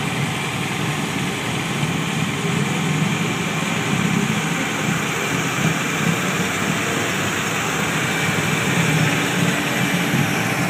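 Police motorcycle engines idling steadily, a low, even engine rumble with no revving.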